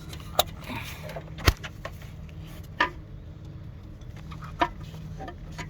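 Four sharp metallic clicks and knocks, the second the loudest, from tools and parts being handled during work on a car's starter motor, over a steady low hum.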